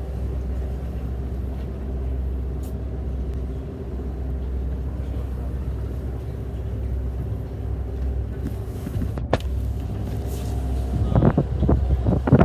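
An engine running steadily with a low, even drone; wind starts buffeting the microphone near the end.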